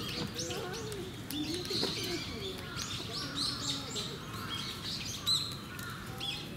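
Small birds chirping, with many short high calls overlapping and following each other.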